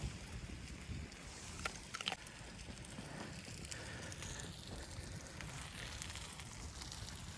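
Steady low rumble of wind, with a few sharp crackles about two seconds in.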